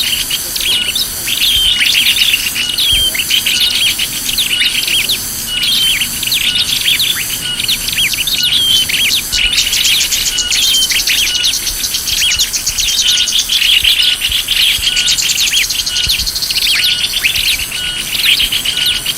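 Bird-lure recording of many small birds chirping and twittering in dense, quick, repeated calls, with a fast trill about ten seconds in. A fast, even, high-pitched pulsing runs behind the calls.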